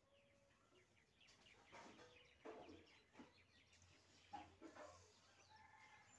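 Near silence: faint outdoor ambience with a few short, distant bird calls at uneven intervals.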